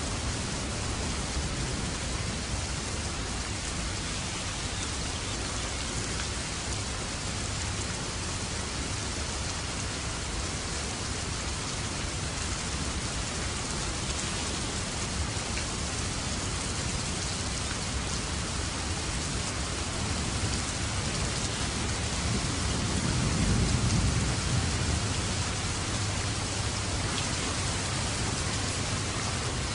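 Steady heavy rain falling, with a low rumble of thunder swelling up about two-thirds of the way through and dying away.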